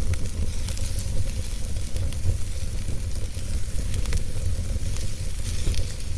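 Wood fire burning in a fireplace: a steady low rumble and soft hiss, with scattered sharp crackles and pops of the burning wood.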